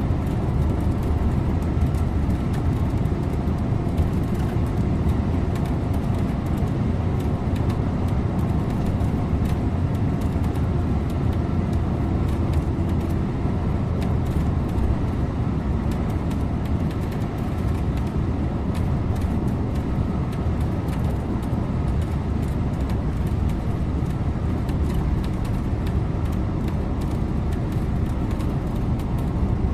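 Scania InterLink bus driving along the road: steady engine and tyre noise with no gear changes or sudden events.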